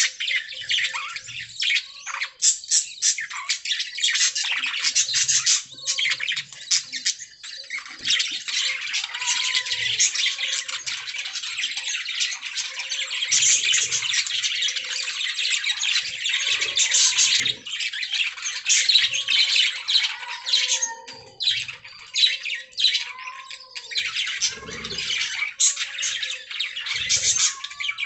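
Budgerigars chirping and warbling continuously in a dense, fast chatter of short high notes, with scattered squawks.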